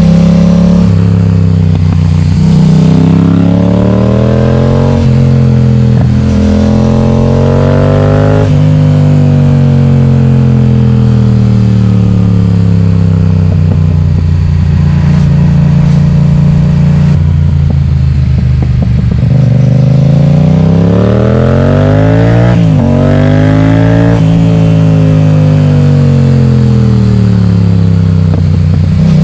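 Yamaha XSR700's parallel-twin engine, loud through an Akrapovic exhaust with its baffle removed, as the bike accelerates and slows on the road. The revs rise and fall repeatedly, with two steep climbs that break off sharply, about a quarter of the way in and again about three quarters of the way in.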